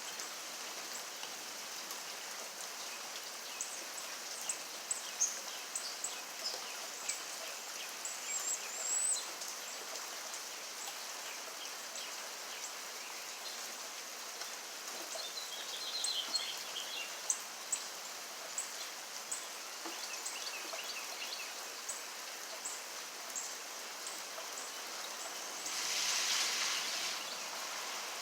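Steady rain falling, a constant hiss with scattered sharp drips and short high chirps that sound like birds calling. A louder rush of rain or water noise lasts about a second near the end.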